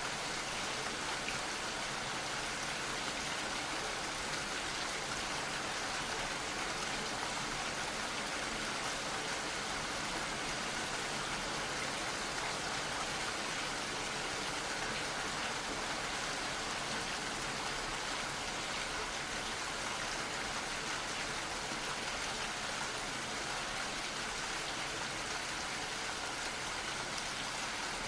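Steady, gentle rain falling, an even hiss of many drops without pause or change.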